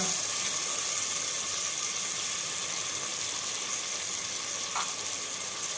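Onions and tomatoes frying in hot oil in a pressure cooker, with ginger-garlic paste just added: a steady sizzle.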